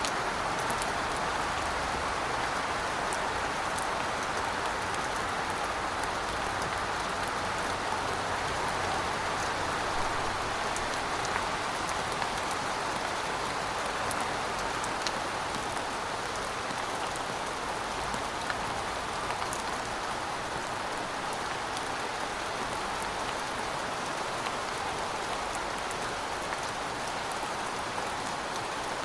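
Heavy rain falling steadily, a dense even wash of drops with scattered sharp drop ticks on top.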